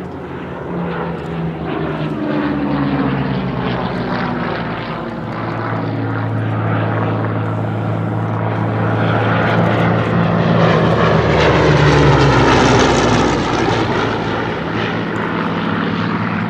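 Hawker Hurricane's Rolls-Royce Merlin V12 engine and propeller in a display flypast. The drone falls in pitch over the first few seconds as an aircraft goes by, then builds to its loudest about twelve seconds in before easing off.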